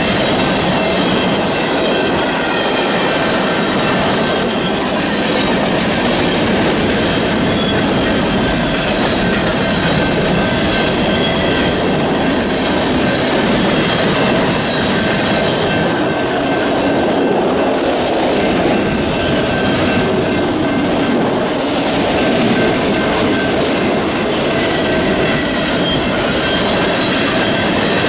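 BNSF freight train cars rolling past on the main line, a steady loud rumble and clatter of wheels on rail. Several thin, high, steady tones ride over it throughout, a light squeal from the wheels.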